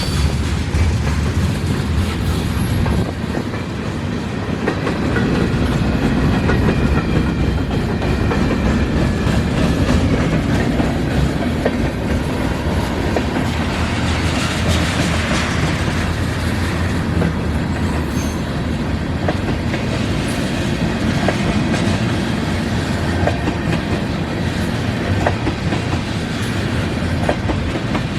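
Mixed freight train rolling past: a steady low rumble of cars and wheels on the rails, with scattered clicks as the wheels cross rail joints.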